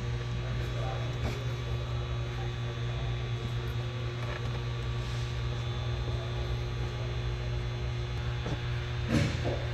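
Steady low hum with a few faint clicks, and a louder knock about nine seconds in.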